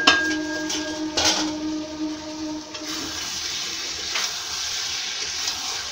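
Green jackfruit pieces frying in masala and oil in a kadai, with a steady sizzling hiss. A metal spatula knocks against the pan a couple of times in the first second or so.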